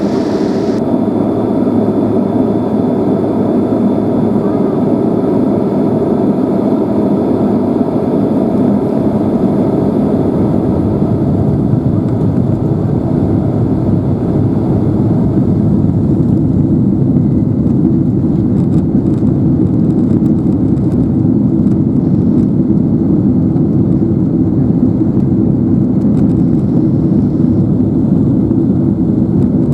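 Steady jet engine and airframe rumble of a Boeing 767-300ER heard from inside the passenger cabin on the ground run, growing a little louder about halfway through.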